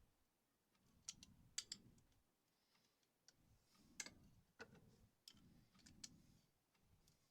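Faint clicks and rustling of Lego bricks being handled and pressed together, with a few sharp ticks scattered through.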